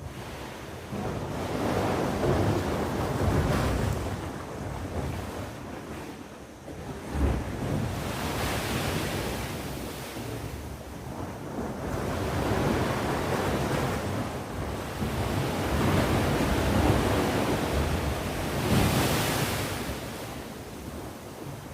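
Sea waves breaking and washing on the shore, swelling and falling every few seconds, with wind noise on the microphone.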